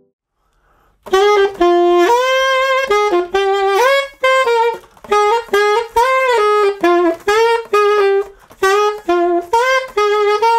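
Saxophone playing a single melody line of held and gliding notes, coming in about a second in after a moment of silence.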